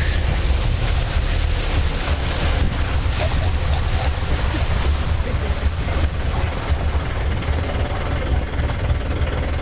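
Safari jeep's engine running with a steady low rumble, mixed with wind buffeting the microphone.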